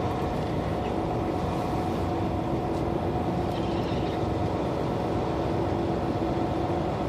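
Semi truck's diesel engine running steadily at low speed, heard from inside the cab as an even drone with a steady hum.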